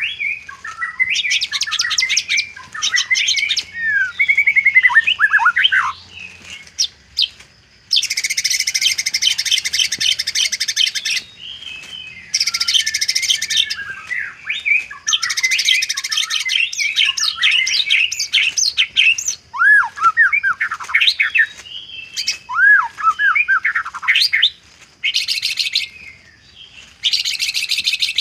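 White-rumped shama singing a varied song of quick whistled glides and slurs, broken by several loud, rapid, buzzy rattles of a second or two each.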